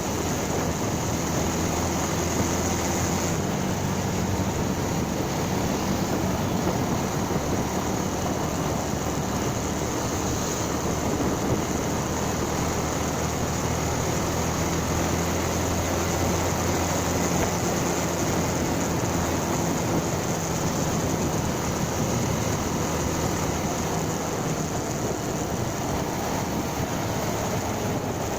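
Motorcycle engine running steadily while riding, its pitch drifting slightly, with road and wind noise on the microphone.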